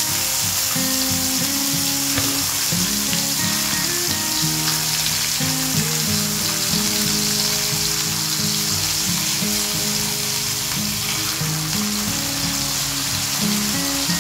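Pabda fish (butterfish) sizzling steadily as they shallow-fry in hot mustard oil in a wok, with a wooden spatula turning them over. Background music plays under the sizzle.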